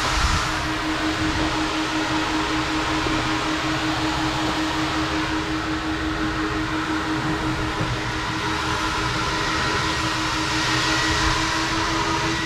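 Automatic car wash machinery running, heard from inside the car: a steady rushing noise with a constant low hum.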